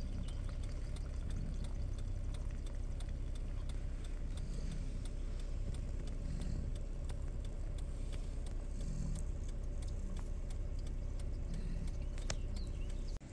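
Minivan engine idling: a steady low rumble with a faint constant hum and scattered small clicks.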